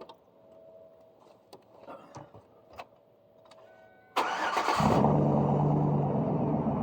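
Chevrolet Suburban's 5.3 V8, straight-piped through dual exhausts with no muffler, cold-started about four seconds in: a short burst of cranking, then the engine catches and settles into a loud, steady idle. A few faint clicks and knocks come before it.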